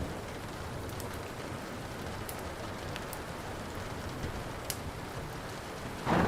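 Steady rain hiss, with a few sharp pops from a crackling wood fire. A loud rumble of thunder begins near the end.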